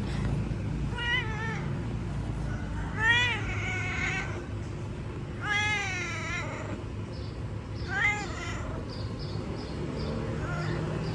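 A domestic cat meowing repeatedly: four meows about two seconds apart, the middle two long and drawn out, then a couple of fainter ones near the end.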